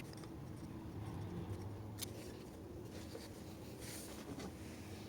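Faint light clicks and scraping of small hand tools on engine parts, over a low steady hum.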